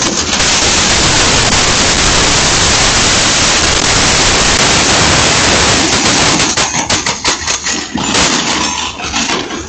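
Loud, harsh roar of noise from a truck crash on dashcam audio, steady for about six seconds, then breaking into irregular crackles and knocks.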